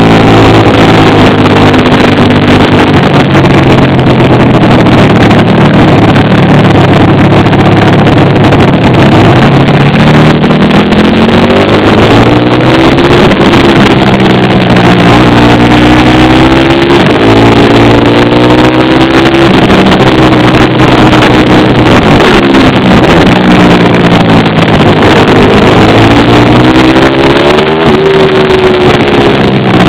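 Pit bike engine revving hard and easing off again and again, its pitch climbing and dropping every few seconds as it is ridden through the gears. Very loud throughout.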